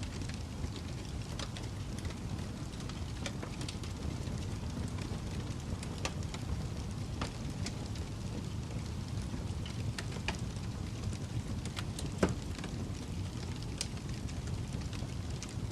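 Fireplace crackling: a steady low rumble of burning wood with scattered sharp pops and snaps, the loudest about twelve seconds in.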